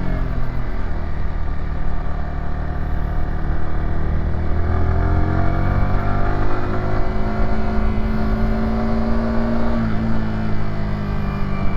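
Yamaha YZF-R125's 125cc single-cylinder four-stroke engine pulling uphill under load, its note rising slowly as the bike gathers speed, with an upshift dropping the pitch near the end before it starts climbing again.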